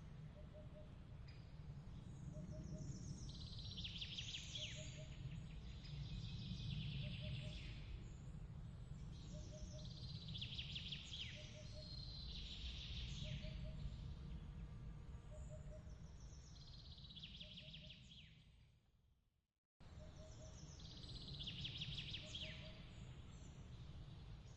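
Nature-ambience bed of birds chirping in repeated trills over a steady low rumble. The sound fades out about 19 seconds in and cuts back in abruptly a moment later, where the recording loops.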